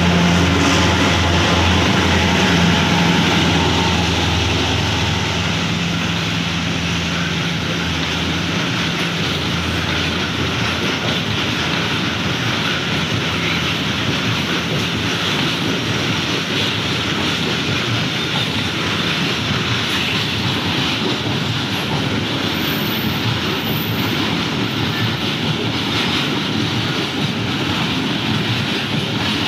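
A train passing close by: a locomotive engine hum fading within the first several seconds, then the carriages rolling past steadily, wheels running on the rails.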